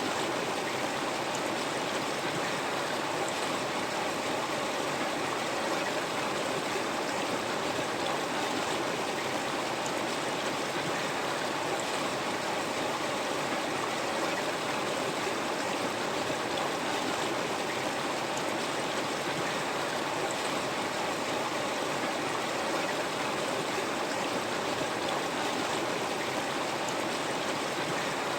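River water flowing over rocks, a steady rushing with a light burble and no change in level.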